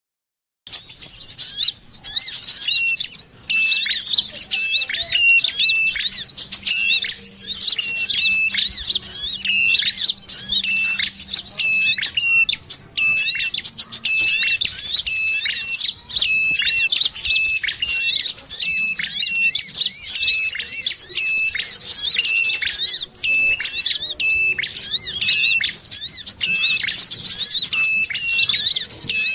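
Bird-lure recording: dense, continuous high-pitched chattering and chirping of small birds, the 'sogon' chatter mixed with calls of the ashy tailorbird and brown-throated sunbird, with a short note repeating about twice a second. It starts just under a second in, after a brief gap.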